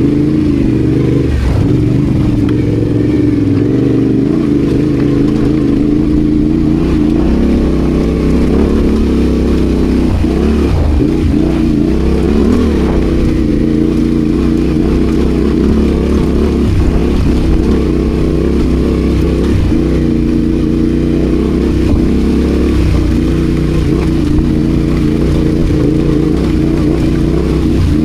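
Adventure motorcycle engine running steadily while riding, its note rising and falling slightly with the throttle.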